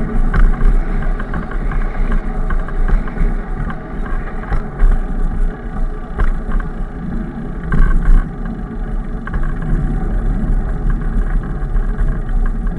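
Wind buffeting the microphone with steady road rumble while riding, broken by scattered clicks and rattles, a cluster of them about eight seconds in.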